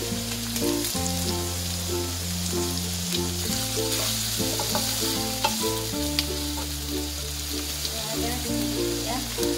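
Pieces of boiled beef hide and green chillies sizzling as they stir-fry in a non-stick wok, with a wooden spatula stirring and clicking against the pan a few times. Background music with held bass notes and a simple stepping melody plays throughout.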